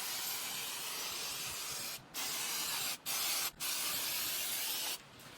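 Aerosol can of engine degreaser spraying in four long hissing bursts, with short breaks about two, three and three and a half seconds in, stopping near the end.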